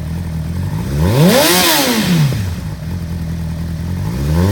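2006 Honda CBR600RR's inline four-cylinder engine idling through a Leo Vince SBK aftermarket exhaust, blipped once about a second in with a quick rise and fall in pitch back to idle. A second rev begins near the end.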